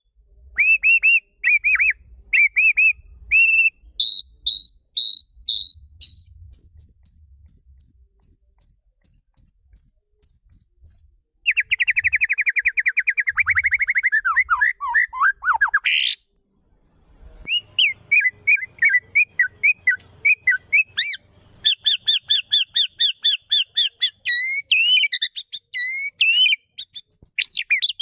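White-rumped shama (murai batu) singing a long, varied song of clear whistled notes in repeated runs. About halfway through comes a fast trill that falls in pitch and ends in a quick upward sweep, then a brief pause before more rapid repeated phrases.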